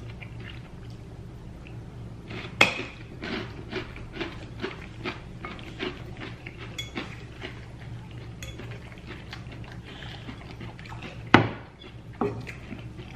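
Forks and cutlery clinking and scraping against plates and a salad bowl in a run of small clicks, with two louder clatters, one about two and a half seconds in and one near the end.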